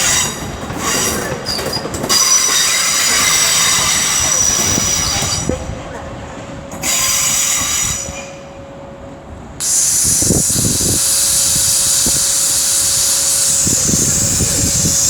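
A pair of Class 350 Desiro electric multiple units arriving slowly at a terminus platform, their brakes and wheels squealing as they come to a stop. About ten seconds in, a sudden loud, steady hiss of air starts and keeps going.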